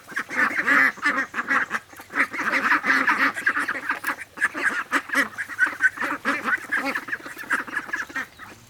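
A flock of domestic ducks quacking, many short calls overlapping in a steady, busy chatter.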